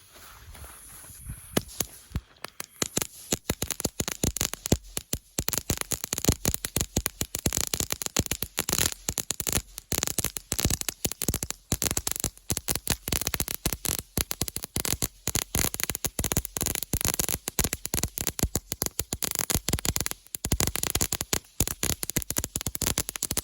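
Small ground fountain firework burning, with a dense, irregular crackling over a hiss that starts about two seconds in.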